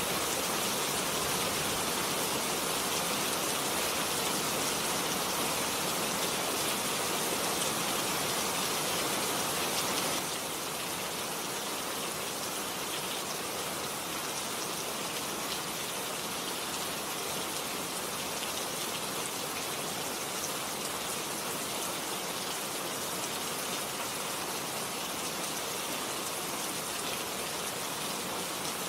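Steady rain. About ten seconds in, the sound drops slightly and changes abruptly: a fuller rushing-water noise gives way to a finer, hissing rain patter.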